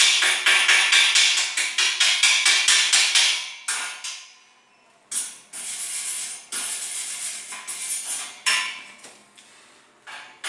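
Rapid hammering on steel, about five sharp metallic strikes a second, in a long run that stops about a third of the way in, then a second, softer run after a short pause.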